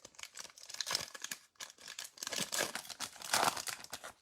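Foil wrapper of a trading-card pack being torn open and crinkled by hand, an irregular run of crackles and rustles.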